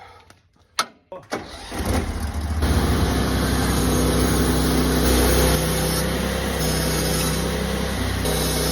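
Two sharp clicks, then an engine starting about two seconds in and running steadily.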